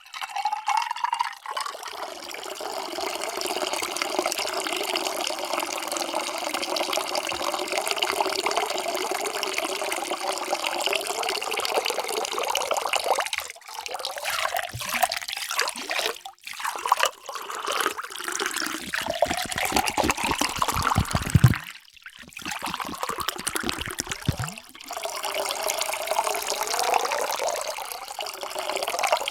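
Water poured into a container in a steady stream, in several separate pours with short breaks between them; the longest runs for about the first dozen seconds.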